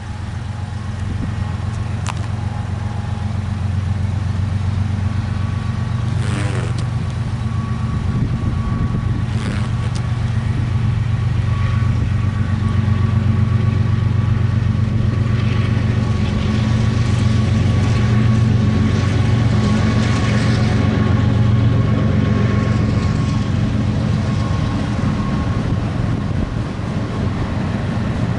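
Diesel locomotives of an empty coal train approaching, their engines making a steady low rumble that grows louder through the first half. A few sharp clicks sound in the first ten seconds.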